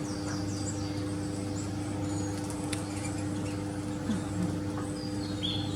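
Faint high-pitched chirps of small garden birds over a steady low hum, with a single sharp click about halfway through.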